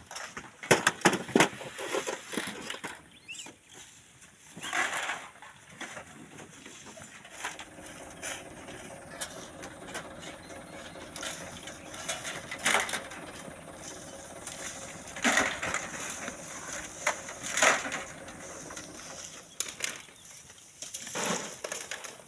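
Gritty crunching and sharp knocks of sand and stones, many in quick succession in the first couple of seconds, then single knocks every few seconds. A faint steady hum runs under the middle part.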